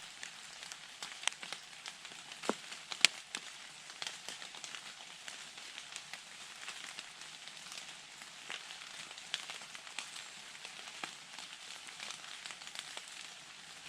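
Steady rain hiss, with scattered sharp ticks of single drops, the loudest about three seconds in.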